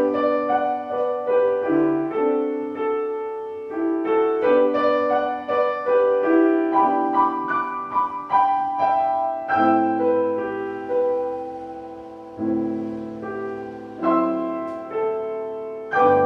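Piano playing classical music, struck notes and chords ringing and fading. In the first half the notes move along quickly. From about halfway, slower held chords follow one another, each left to ring before the next.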